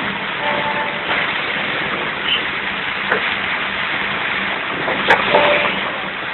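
Rain and tyre noise heard from inside a moving car on a wet highway: a steady hiss with a low engine hum, and a few sharp knocks about three and five seconds in.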